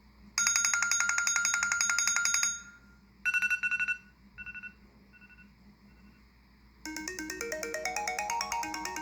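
Apple iPhone 5S ringtones played one after another. First a rapid electronic trill for about two seconds, then a short trill that repeats four times, fading each time. Near the end a melodic ringtone with rising runs of notes begins.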